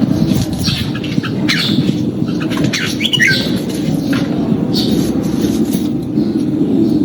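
Red-whiskered bulbul calling: short sharp notes scattered through, with one falling whistled phrase about three seconds in, over a steady low background hum.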